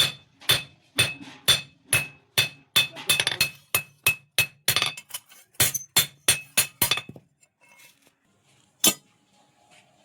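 Blacksmith's hand hammer striking a sickle blade on an anvil, each blow ringing. The blows come about two a second, quicken in the middle, stop about seven seconds in, and one last blow follows near the end.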